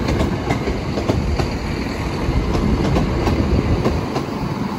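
A train passing on the track, a steady low rumble with its wheels clicking over the rail joints several times a second.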